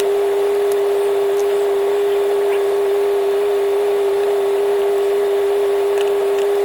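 A loud, steady mechanical hum holding one unchanging pitch, with a few faint clicks over it.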